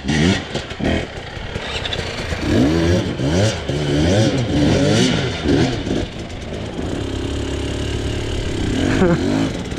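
Two-stroke enduro dirt bike engine revving in repeated rising and falling bursts as the throttle is worked on and off, then holding a steadier pitch for a couple of seconds before revving up again near the end.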